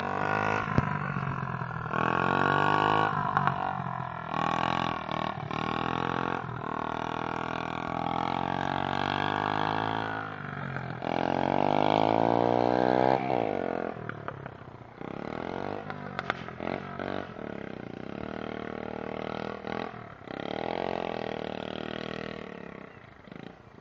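Pit bike engine revving as it is ridden, its pitch climbing and dropping again and again. The loudest stretch is a long rising run about halfway through. After that the engine grows quieter and patchier before picking up again near the end.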